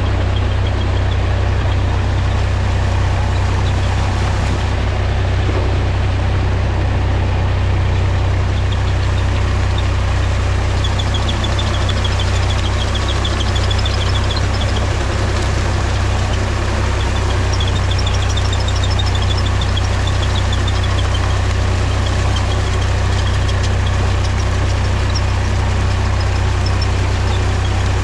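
Mahindra tractor's diesel engine running steadily, a constant low rumble with no change in speed.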